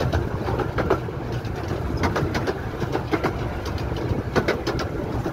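Romney, Hythe and Dymchurch Railway miniature train running along the track: a steady low rumble with irregular clicks and knocks from the wheels and carriages.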